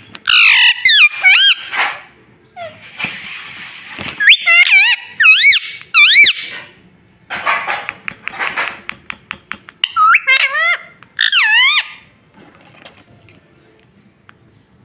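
Ring-necked parakeet calling: clusters of sharp, wavering whistled notes alternating with harsh raspy squawks, in several bursts separated by short pauses.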